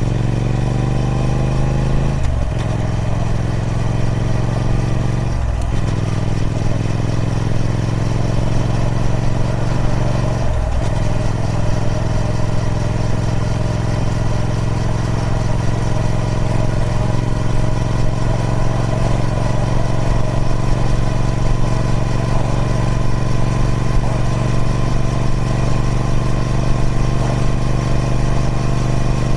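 Triumph Speed Twin 1200's 270° parallel-twin engine through its stock exhaust, pulling through the gears with brief upshift breaks about two, five and ten seconds in, then running steadily with the note slowly rising.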